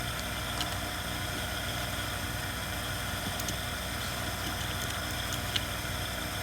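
Steady low machine hum with hiss, and a few faint light clicks of small parts being handled on the bench, the sharpest about five and a half seconds in.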